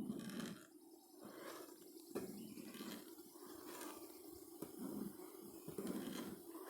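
Russian honey bees humming steadily at the hive, the hum swelling and easing, with a few faint clicks.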